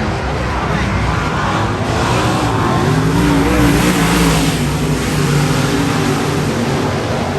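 Race car engines on a dirt oval, their pitch wavering up and down as the cars run around the track, growing louder about halfway through as they come by.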